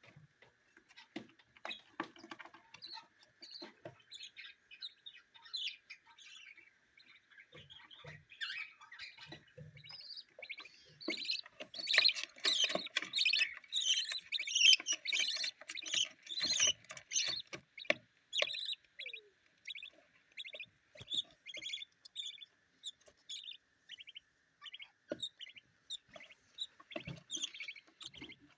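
Young budgerigar chicks chirping in many short calls, sparse at first, growing into a dense, loud flurry in the middle, then thinning to evenly spaced chirps.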